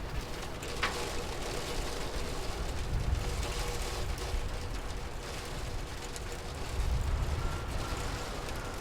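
Steady rain with a low, continuous rumble underneath and a single sharp click about a second in.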